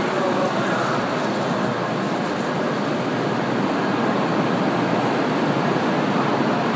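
Shinkansen train rolling slowly into the platform as it brakes to a stop: a steady rolling noise.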